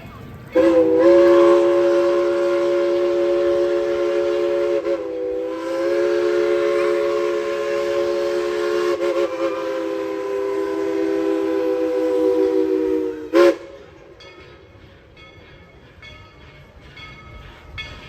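Steam locomotive #190's chime whistle, newly repaired, blowing one long chord of several steady tones. It sags briefly about five seconds in and cuts off sharply about thirteen seconds in.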